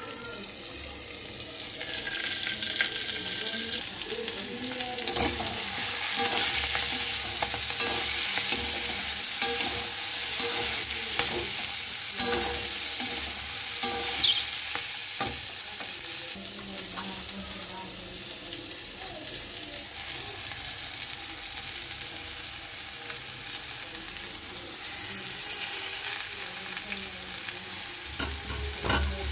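Diced potatoes and peas frying in hot oil in a steel kadhai: a steady sizzle, broken by frequent clicks and scrapes as they are stirred against the pan.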